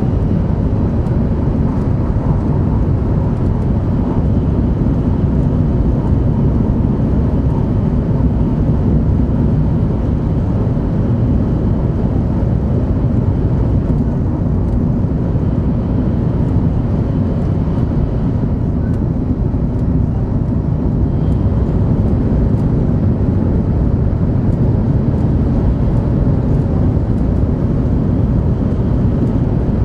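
Steady running noise of a 500 Series Shinkansen heard inside the passenger cabin: an even, loud rumble that is strongest in the low range, with faint steady tones above it.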